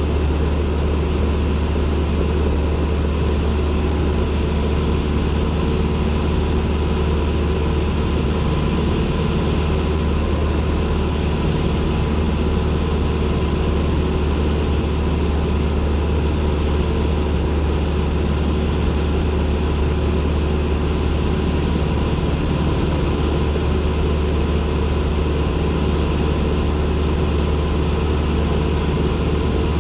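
Cessna 172N's four-cylinder Lycoming engine and propeller droning steadily, heard from inside the cockpit. The low hum holds an even pitch and level throughout.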